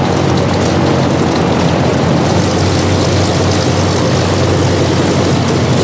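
Propeller aircraft passing with its piston engine running loud and steady, a low drone.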